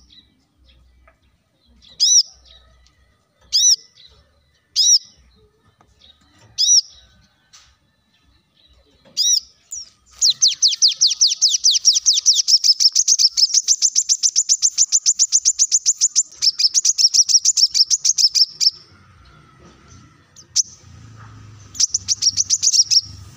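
Brown-throated sunbird (kolibri kelapa) singing. Single sharp, high chip notes come a second or two apart. About ten seconds in it breaks into a long, rapid trill of high notes, stops briefly, and starts the trill again near the end.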